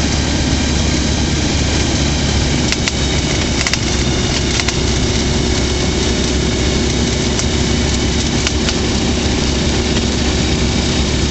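Rotax 912 flat-four engine of a Skyranger microlight running steadily, with a few light clicks a few seconds in.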